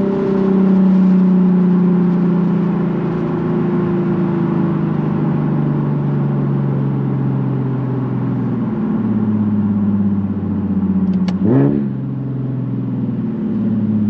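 Nissan 370Z's 3.7-litre V6 through a Tomei titanium catback exhaust, its revs falling slowly as the car coasts. About nine seconds in the pitch drops, and a few seconds later there is a quick sharp blip of revs with a click just before it.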